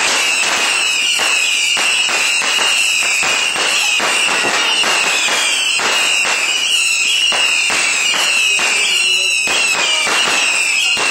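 Fireworks going off in a dense, continuous barrage of crackling pops, several a second, over a steady high whistle.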